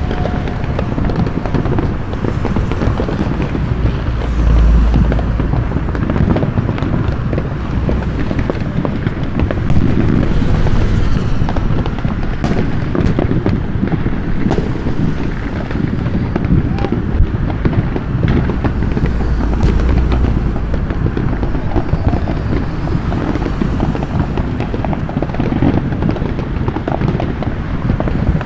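Many fireworks going off at once: a continuous crackle of pops and bangs with deep low rumbles around five and twenty seconds in.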